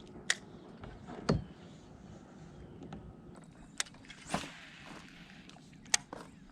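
A handful of sharp clicks and knocks, about five spread over several seconds, from fishing tackle and kayak gear being handled.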